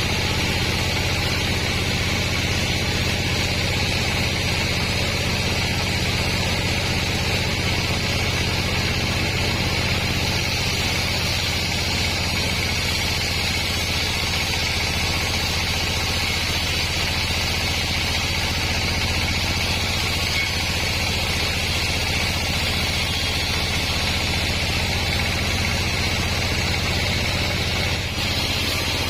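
A 36-inch band sawmill running steadily, its motor giving an unbroken hum under a higher, even hiss from the blade.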